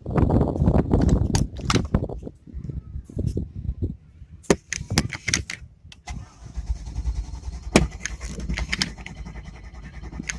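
Carbureted sterndrive boat engine catching about six seconds in and then idling steadily. Before that, irregular clicks, knocks and rattles.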